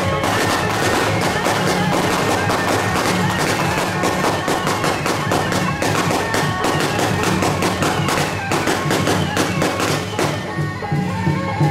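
Procession music with drums, with rapid firecracker pops crackling through it that thin out near the end.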